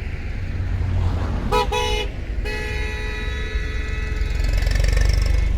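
A vehicle horn gives two short toots, then sounds in one long held blast of about three seconds, over the low rumble of a moving vehicle's engine and road.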